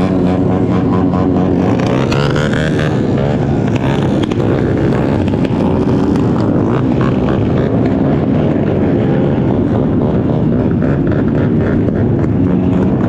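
Motorcycle engine running under way, its pitch rising and falling as it revs, with a rising sweep a couple of seconds in, over steady wind and road noise.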